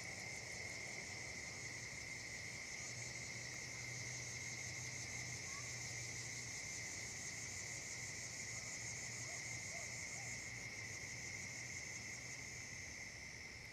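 Steady chorus of summer insects, crickets trilling at two pitches, one high and one higher, over a faint low hum, with a few faint bird chirps; it fades near the end.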